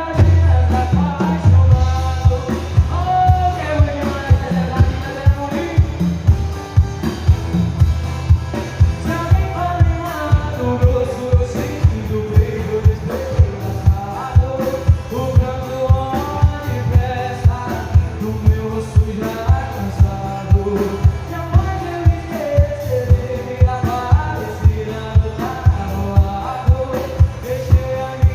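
A sertanejo song performed live: a male voice singing over band accompaniment with a steady kick-drum beat of about two hits a second.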